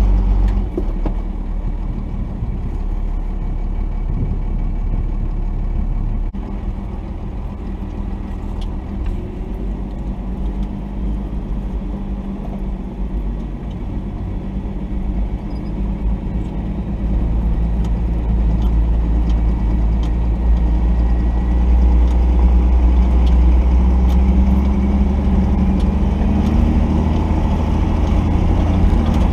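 Cummins diesel engine of a 1990 Dodge D250 pickup running steadily at low speed. It grows louder about two-thirds of the way through.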